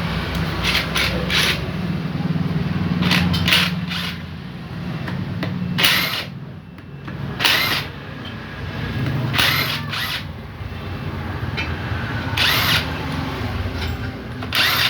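Handheld power tool running over a steady low hum, with about five short, sharp bursts spread through the stretch, the way a drill or impact driver sounds when it works on engine fasteners.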